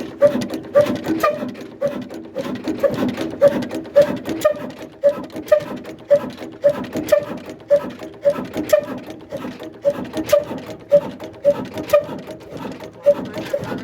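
Old handmade 'desi' black diesel engine, rated about 35 hp, running at a slow, steady speed, thudding evenly at about two to three beats a second.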